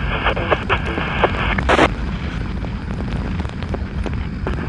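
Steady low rumble of a motorcycle under way, engine and wind on the microphone. A police scanner's static crackles over it and cuts off with a short burst about two seconds in.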